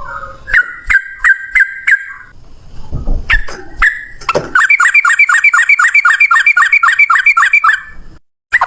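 Sooty-headed bulbul (trucukan) singing: a few separate notes at first, then, from about halfway, a fast even run of repeated notes, about six a second, the rapid 'ropel' song, breaking off shortly before the end.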